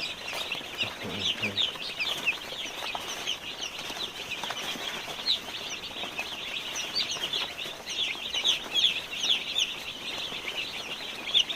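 A brood of day-old broiler chicks peeping continuously: many short, high, falling chirps overlapping with one another.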